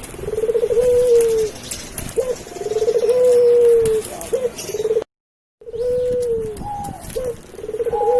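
Doves cooing in repeated phrases, each a rolling, trembling note running into a long steady coo, about every two seconds. The sound cuts out completely for half a second about five seconds in.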